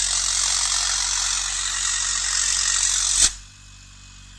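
Refrigerator compressor running on the bench, driven by the repaired control board: a loud, steady rushing noise that cuts off with a click about three seconds in, leaving a low hum.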